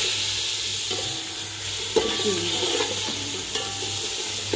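Sliced raw chicken sizzling as it fries in hot ghee in an aluminium pot, stirred with a metal spoon that scrapes the pot, with a sharp knock about two seconds in.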